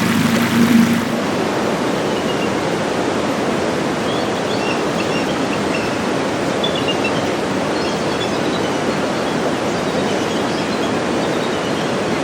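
A boat motor's steady hum for about the first second, then a steady rushing noise with faint high chirps scattered through it.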